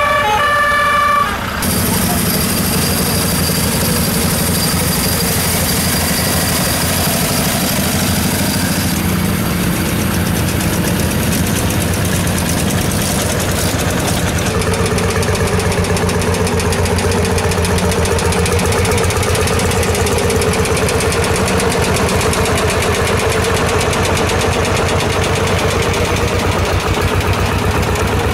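Tractor engines running steadily with a fast, even chugging, heard as the tractors drive by. The sound changes abruptly about a second and a half in, and a steady humming tone joins about halfway through.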